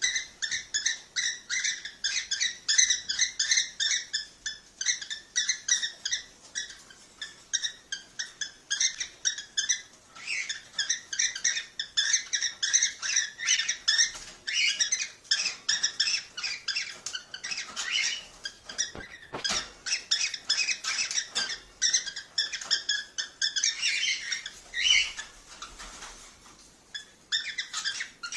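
Cockatiels chattering and chirping: rapid, high, repeated calls several times a second, a continuous chorus of the kind played to stimulate breeding.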